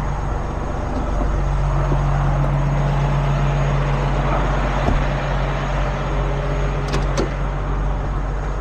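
Heavy tow truck's diesel engine running steadily while the truck is maneuvered into position, its hum growing a little stronger for a few seconds. Two sharp clicks come about seven seconds in.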